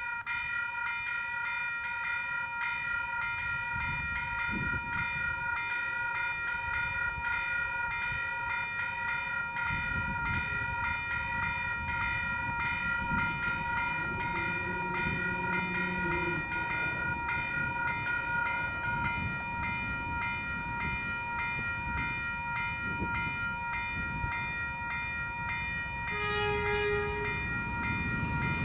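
Western Cullen Hayes electronic level-crossing bells ringing steadily in quick, even strokes after the crossing activates. An approaching XPT's horn sounds about halfway through and again briefly near the end, and the low rumble of the oncoming train grows toward the end.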